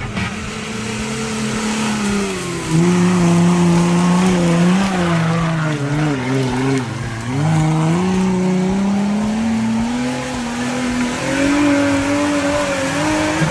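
Off-road jeep engine working under load, its pitch rising and falling as the revs change, dipping about six seconds in and then climbing steadily.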